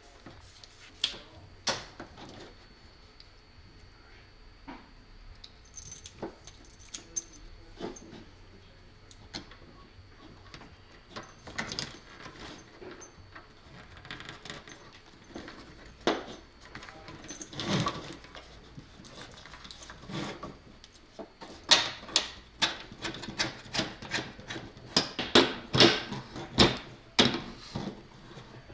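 Hand tools and cable being handled while a cable jacket is stripped back: scattered sharp clicks, snips and light knocks, crowding into a fast run of loud clicks near the end.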